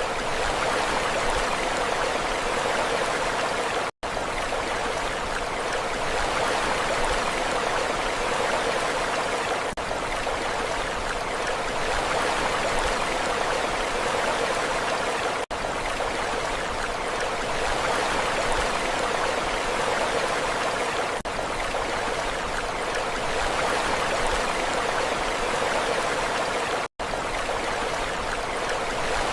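Steady rushing water, a dense even wash with only gentle swells in level, as in a continuous sea-sound recording. It cuts out completely for an instant twice, typical of the joins in a looped recording.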